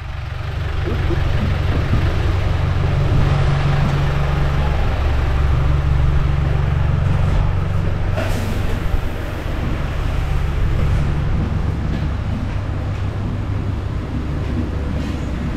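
Motor vehicle engine running steadily while driving, with road and wind noise over it.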